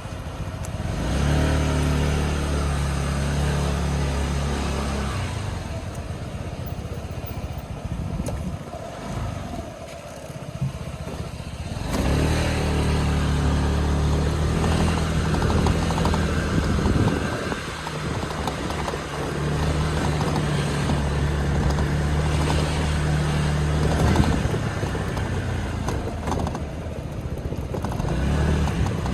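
Honda Forza 125 scooter's single-cylinder engine running, with its windscreen vibrating and rattling, a fault that appeared after about 3,800 km. The engine note fades for several seconds about a third of the way in, then returns.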